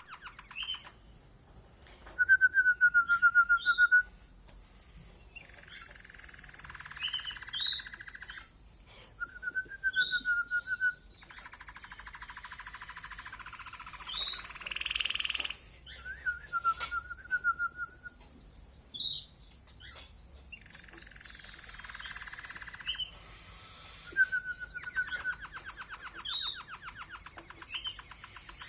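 Canary singing: a varied song of fast rolling trills, some high and some lower, broken by a wavering whistled phrase that comes back about four times, loudest about two seconds in.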